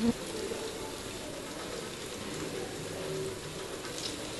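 Beaten eggs frying in a pan with a steady sizzle, stirred with a wooden spatula; one sharp knock right at the start.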